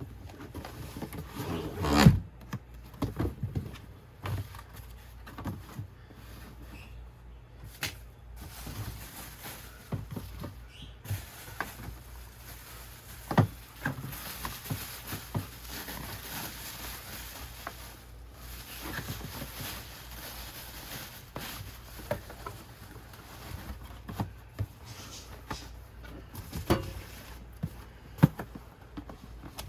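Handling noises from packing a pair of sneakers and their cardboard shoebox: scattered taps, knocks and rustles, with one louder thump about two seconds in.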